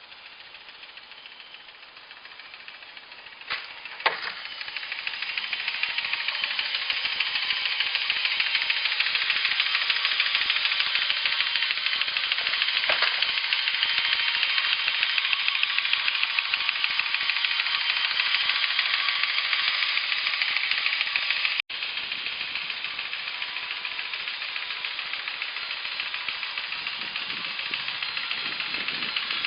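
G-scale model train running on its track, a steady hissing rattle of motor and wheels that grows louder about four seconds in, just after two sharp clicks.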